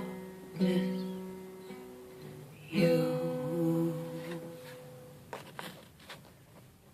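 Acoustic guitar playing the closing chords of a song: two strummed chords about two seconds apart, each left to ring and fade. A voice hums briefly over the second chord, and a few soft clicks follow near the end as the sound dies away.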